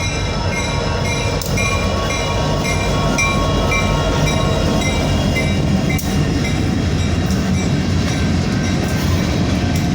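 Freight train rolling past a grade crossing, a steady rumble of wheels on the rails with occasional clacks. A bell dings about twice a second through the first half, then fades.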